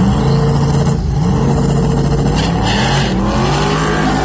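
Twin-turbo Mustang drag car at full throttle, its engine pitch climbing, falling back and climbing again as it pulls through the gears.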